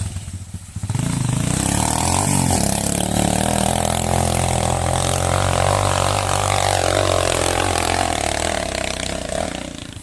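Small off-road motorcycle engine revving hard and held at high revs, its pitch rising and falling a little. It starts about a second in and dies down just before the end.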